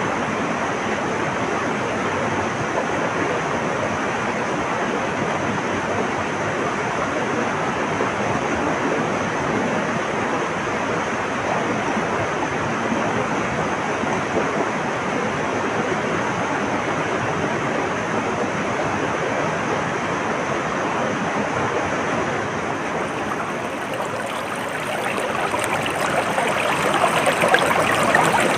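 Flowing stream water, a steady rushing and burbling. About three-quarters of the way through it dips briefly, then comes back louder and more splashy.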